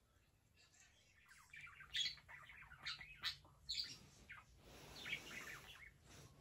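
Small pet parrot chirping and squawking in quick, irregular calls, with a short soft rustle about five seconds in.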